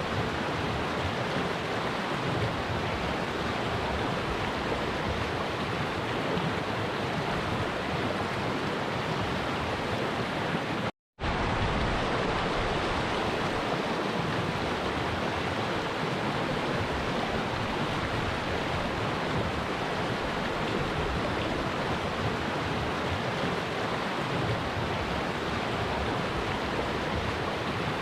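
A stream flowing: a steady rush of water, broken by a moment of complete silence about eleven seconds in.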